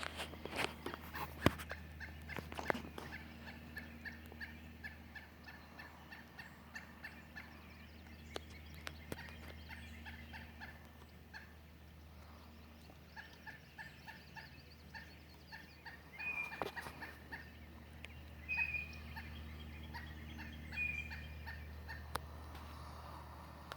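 A woodpecker giving alarm calls: runs of rapid, evenly repeated short notes lasting a few seconds each, with a few higher single chirps in the second half. A few sharp clicks or knocks come in the first seconds.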